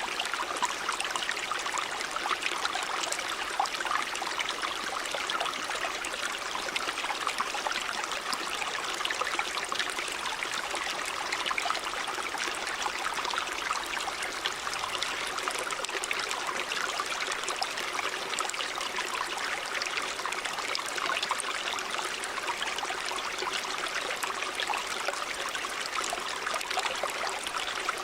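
Shallow river water running and splashing over stones: a steady rushing with many small trickles and gurgles, unchanging throughout.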